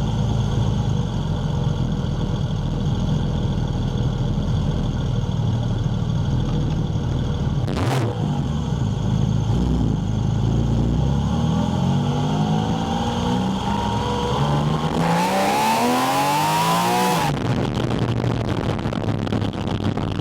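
Porsche 718 Spyder RS flat-six engine heard at its air intake, running steadily under way. About 11 s in it accelerates hard, rising in pitch with a loud intake rush near the top, then cuts off suddenly as the throttle is lifted.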